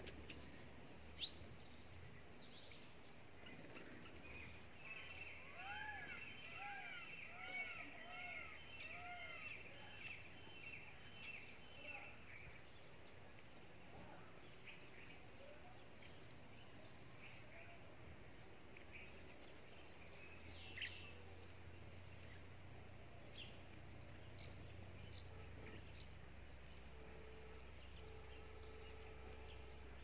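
Small birds chirping, faint, over a steady low background rumble. A few seconds in comes a busy run of quick high chirps together with a series of about seven rising-and-falling calls. The second half has scattered sharp single chirps.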